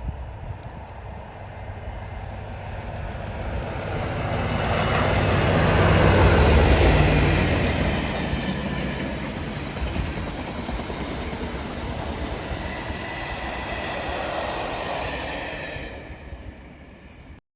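Two Class 47 diesel-electric locomotives, each with a Sulzer twelve-cylinder engine, passing under power. The sound grows to a peak about six seconds in, carries on strongly as the move rolls by, then fades and cuts off near the end.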